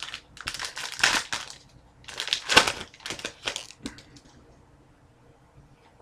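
A foil trading-card pack wrapper and cards being handled, crinkling in two bursts, then going quiet about four seconds in.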